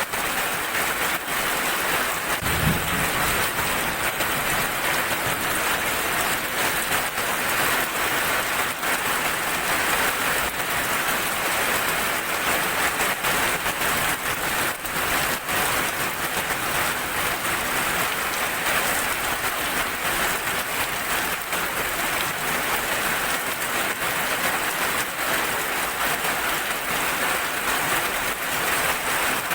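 Heavy rain falling steadily: a dense, even hiss with the patter of individual drops striking a surface. There is one brief low thump about two and a half seconds in.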